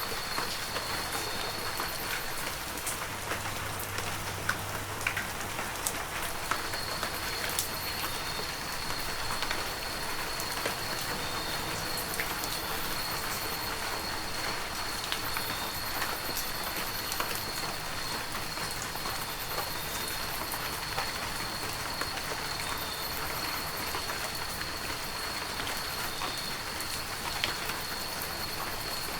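Heavy rain falling steadily, with many small drops pattering close by. A thin, steady high tone runs under it from about six seconds in.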